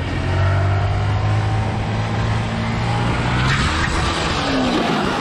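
Motor vehicle engine running with a steady low hum. About three and a half seconds in, the sound of a vehicle passing swells, its engine note rising and then falling.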